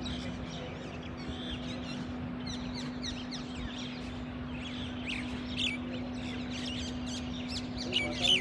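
Many birds chirping and twittering in a garden, with a few louder calls about two-thirds of the way in and near the end, over a steady low hum.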